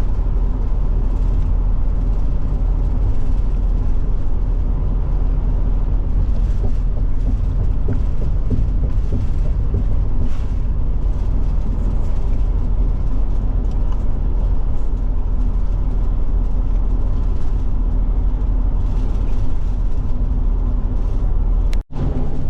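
Steady engine and tyre rumble inside a Forest River Forester motorhome's cab while it cruises on the highway. The sound breaks off sharply near the end, where the recording cuts.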